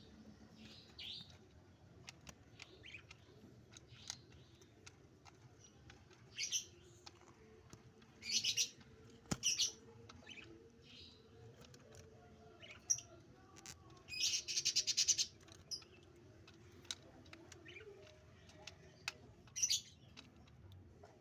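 Pet doves at feeding time: soft, low, drawn-out cooing, with short scattered rustles and taps. A longer, louder rustle comes about two-thirds of the way through.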